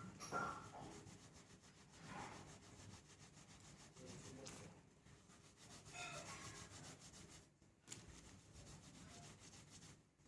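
Faint rubbing strokes of wet hair being towel-dried with a thin cotton gamchha, irregular and a second or two apart.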